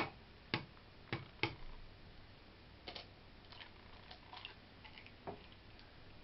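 An egg cracked against a mug's rim: a few sharp taps and clicks of eggshell on ceramic, most in the first second and a half, with fainter clicks later as the shell is pulled apart.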